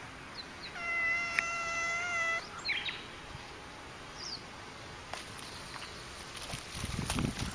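A cat gives one long, even-pitched meow about a second in, lasting about a second and a half, with a few faint bird chirps around it. Light clicks and rustling follow near the end.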